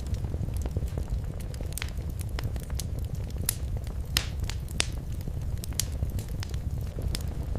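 Wood fire crackling in a fireplace: irregular sharp pops and snaps over a steady low rumble, with a few louder pops a little after the middle.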